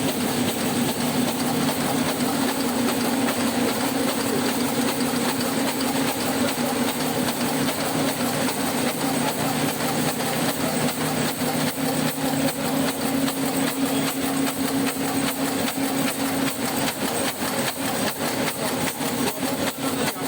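Servo-driven paper hamburger box making machine running at high speed: a rapid, regular mechanical clatter over a steady hum, and the hum drops away near the end.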